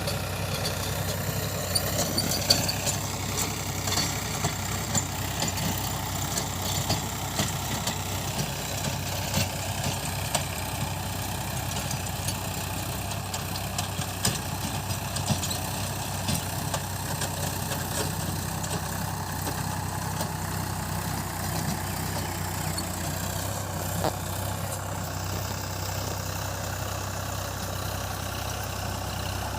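Tractor engine running steadily, with scattered clicks and knocks over the engine note.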